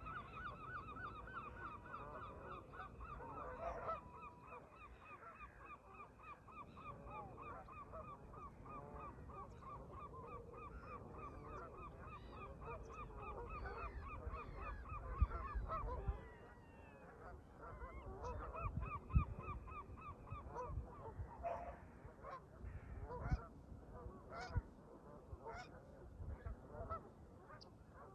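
Canada geese honking: a rapid run of repeated honks for about the first half, then scattered calls, with wind rumbling on the microphone.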